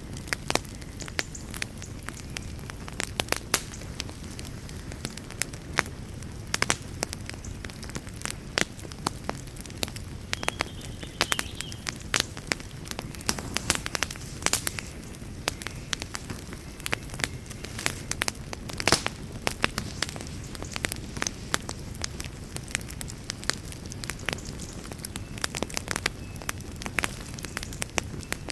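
Wood campfire burning, with sharp irregular pops and crackles from the burning logs over a soft, steady low rush.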